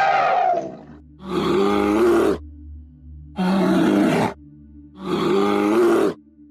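A large animal calling repeatedly: a long call fading out near the start, then three calls about a second long each, evenly spaced with short pauses.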